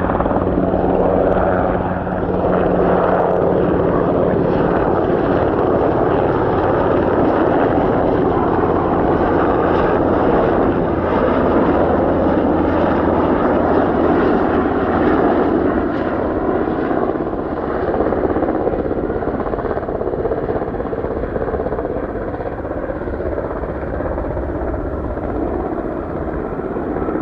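Aircraft engines running with a loud, steady noise that eases slightly in the last few seconds.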